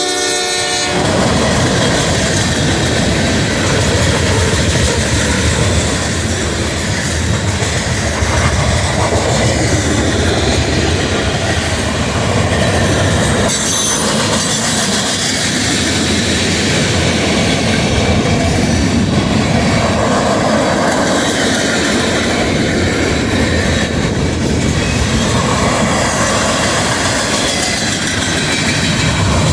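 Freight train rolling past: a loud, steady rush of steel wheels on the rails and rattling cars. A locomotive horn blast ends about a second in.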